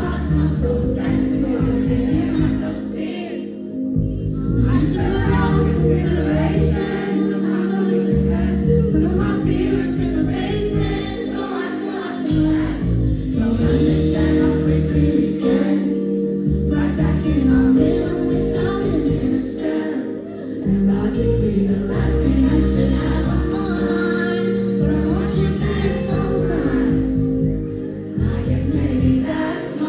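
Live performance of a pop song: a female singer's lead vocal over a full band, with a steady low beat and sustained chords.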